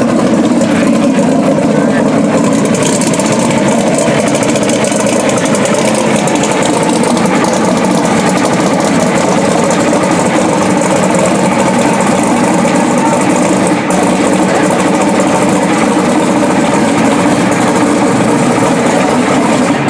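Race car engines idling under indistinct crowd chatter, a steady loud din.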